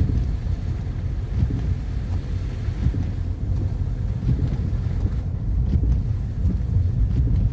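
Steady low rumble of a car driving on a snowy road: tyre and engine noise, with a few faint knocks.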